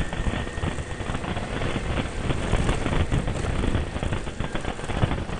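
Motorcycle creeping over a rough, rocky dirt road at walking pace: a dense, irregular crackle of tyres on loose rock and gravel and the bike jolting over the bumps.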